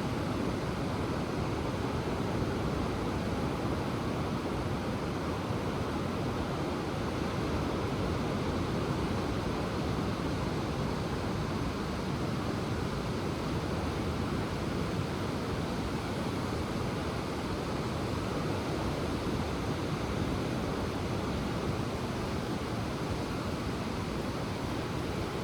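Ocean surf: waves washing ashore in a steady, even wash of noise, with no single breaker standing out.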